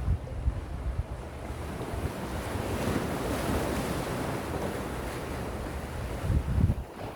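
Gentle sea waves washing on the shore, with a wash swelling and fading in the middle. Wind buffets the microphone in low rumbles at the start and again near the end.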